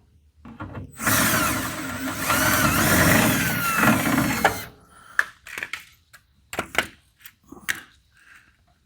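Power drill running a screw extractor in reverse in a broken, rusted fender bolt for about three and a half seconds, its pitch wavering as it bears down, with little hope of the bolt coming out. Then a few light clicks and knocks.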